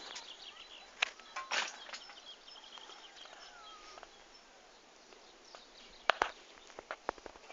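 Small songbirds chirping, with a gliding whistled note in the middle. Several sharp clicks or knocks, louder than the birdsong, come about a second in and again near the end.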